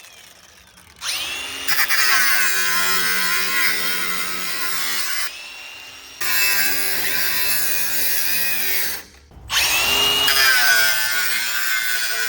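Hand-held electric power tool running in three bursts with short stops between, its pitch sagging and recovering as it is loaded against the metal.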